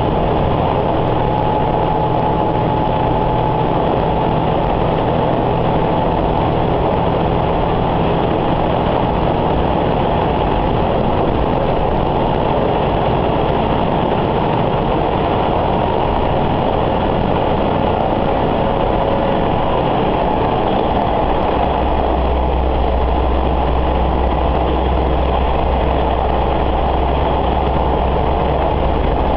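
Diesel railcar running, heard from inside the car: a steady engine drone mixed with wheel-and-rail rumble. The low engine note grows stronger about two-thirds of the way through.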